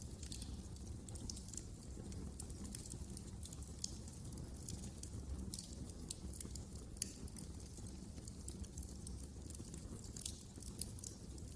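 Wood fire crackling: many small, irregular snaps and pops over a low, steady rumble of burning, with one sharper pop about seven seconds in.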